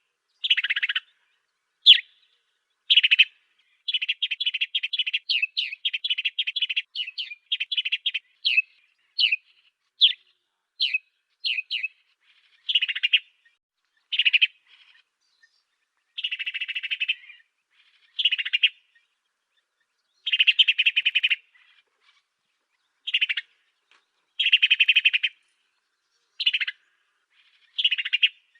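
Song of the bird sold in Indonesia as 'burung gereja afrika' (African sparrow): a fast run of short chirping notes for several seconds near the start, then separate buzzy chirping phrases of about a second each with short pauses between.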